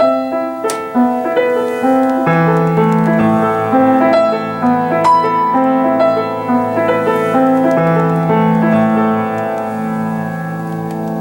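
Solo piano playing a slow broken-chord passage with the sustain pedal held down, so the notes ring on and blend into one another.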